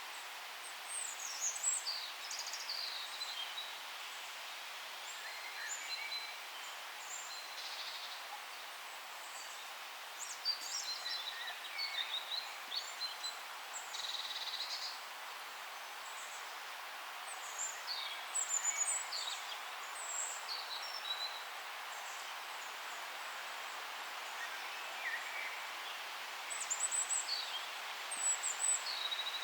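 Several songbirds singing in a forest over a steady hiss of ambient forest noise, their short high chirps and warbles coming in clusters with brief lulls between.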